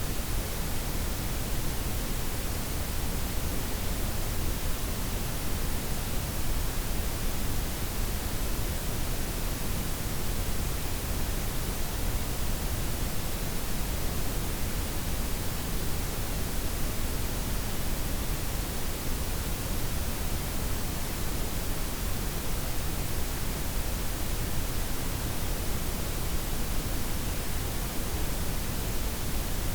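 Synthetic layered noise, white, pink and brown blended, as a steady even hiss with a deep low rumble underneath and no changes.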